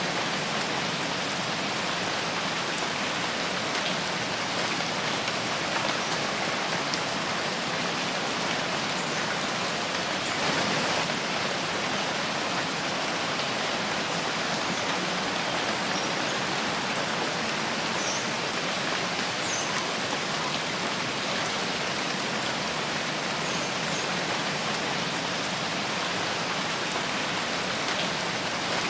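Steady rain falling in a forest, an even hiss of drops on leaves and ground with a few faint individual drips, swelling slightly about ten seconds in.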